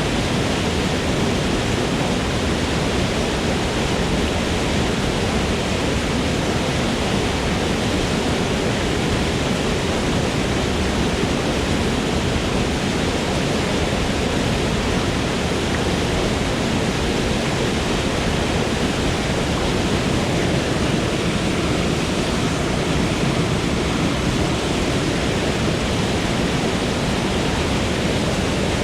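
Waterfall in a forest: a steady, loud rush of falling water that holds even throughout.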